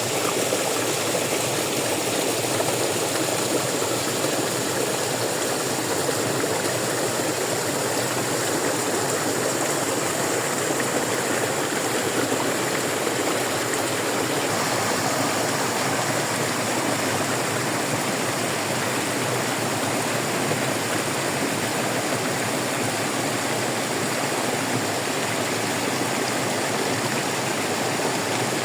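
Fast-flowing stream rushing steadily, an even wash of water noise with no breaks.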